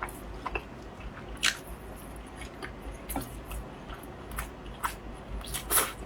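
Close-miked chewing of braised pork knuckle meat: scattered wet mouth clicks and smacks about once a second, the loudest near the end.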